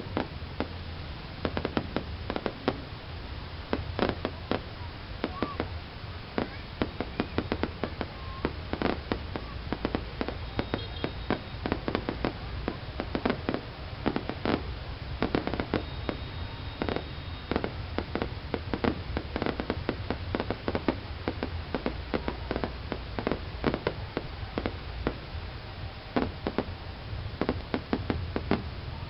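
Fireworks going off: many sharp bangs and crackles in quick, irregular succession, over a steady low rumble.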